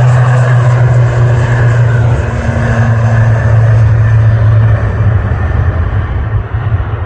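ATR 72 twin turboprop engines at takeoff power, a loud steady propeller drone with a strong low hum and a rushing noise above it. It begins to fade about five seconds in as the aircraft climbs away.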